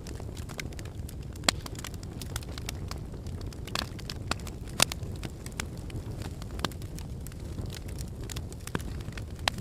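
Wood fire burning in a fireplace: a steady low rumble of flames with irregular sharp crackles and pops from the burning logs, the loudest pops about one and a half, four and five seconds in.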